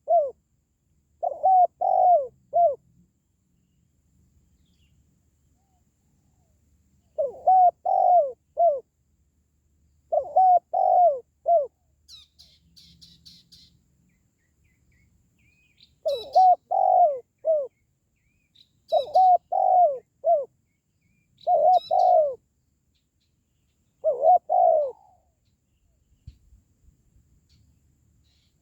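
Spotted dove (tekukur) calling: about seven short cooing phrases of three to four notes each, with pauses of a few seconds between them. A small bird chirps faintly and high-pitched in the middle stretch.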